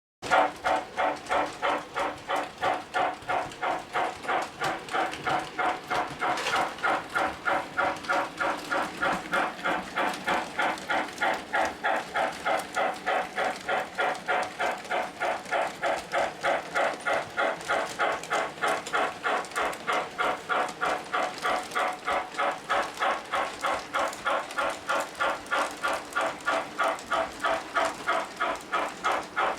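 O gauge model train running on three-rail tubular track, with a steady, even beat about three times a second.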